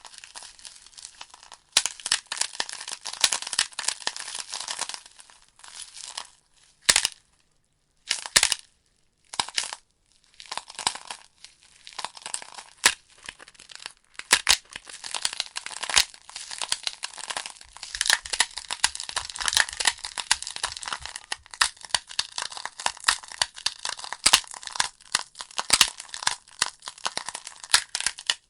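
Wood fire in a fireplace crackling, with dense irregular snaps and a few louder sharp pops from the burning logs. The crackling nearly drops out for a couple of seconds about nine seconds in, then resumes just as busy.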